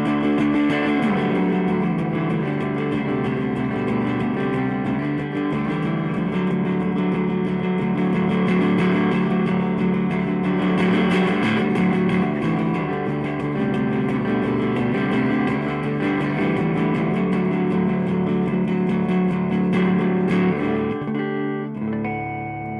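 Electric guitar with Lindy Fralin Broadcaster pickups, neck and bridge mixed, played through a Fender Blues Deville 212 tube amp. A busy run of single notes and chords goes on until, near the end, a last chord is struck and left ringing out.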